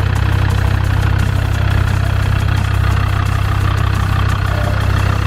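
Four-wheel-drive vehicle's engine running at a steady idle, a constant low drone with no revving.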